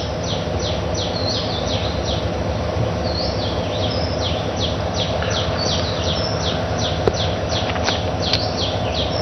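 Birds chirping steadily: a continuous string of short, high, down-slurred chirps, about three a second, over a steady background hum.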